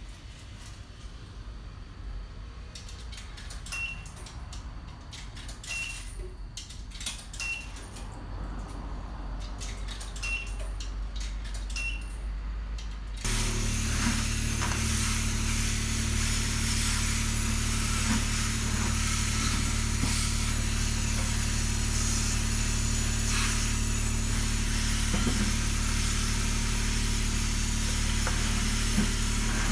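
Self-serve car wash's high-pressure machine: a few short high beeps and light clicks, then, about halfway through, the pump starts abruptly and runs steadily with a low hum under the hiss of the rinse spray.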